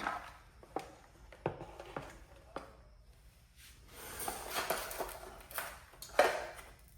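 Parts being handled on a workbench: scattered light clicks and knocks, a stretch of rustling about four seconds in, and a sharper knock near the end.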